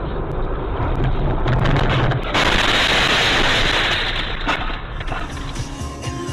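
Vehicle noise on the road with a few clicks, then a sudden loud rush of noise about two and a half seconds in that lasts about two seconds and fades.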